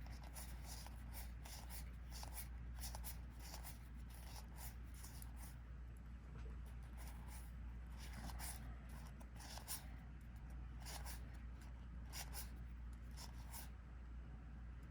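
Collectible trading cards being slid and flipped one after another, soft swishes about two a second, over a faint low hum.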